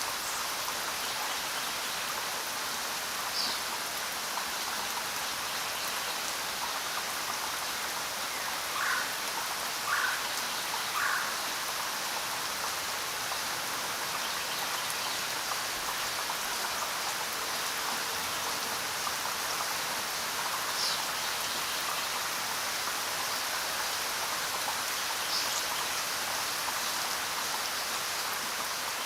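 Steady rain falling, an even patter throughout. A few brief louder sounds stand out from it, three in quick succession about a third of the way in and a few short high-pitched ones scattered through.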